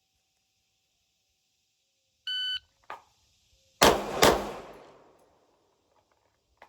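Shot timer start beep, then a pistol drawn from a holster and fired twice about a second and a half later, the two shots under half a second apart, their report dying away over about a second.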